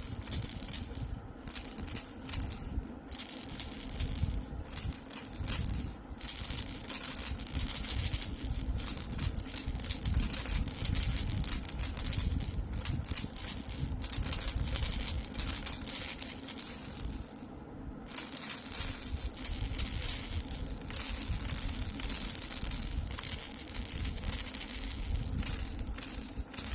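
Baby rattle shaken repeatedly, a rapid bright rattling of small beads inside, with a few short pauses, the longest about 17 to 18 seconds in.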